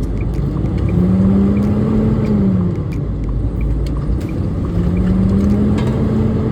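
Semi truck's diesel engine running as heard inside the cab, over a steady low rumble. Its tone rises and then drops away twice as the truck pulls and the engine note changes.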